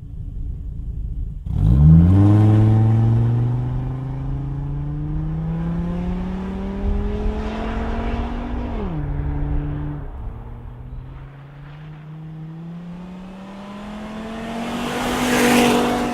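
Chevy Colorado pickup's engine and BBK VariTune performance exhaust accelerating hard through the gears. The engine note jumps up suddenly about a second and a half in and climbs steadily, drops at an upshift about nine seconds in, then climbs again. It grows louder near the end as the truck comes closer.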